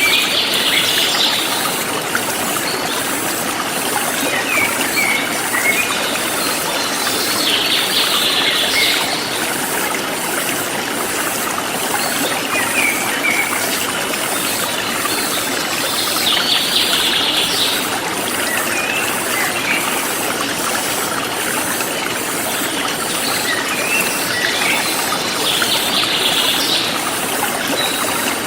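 Forest stream flowing steadily. A bird sings a short phrase about every eight seconds, four times in all, with brief chirps in between. Insects pulse high and evenly underneath.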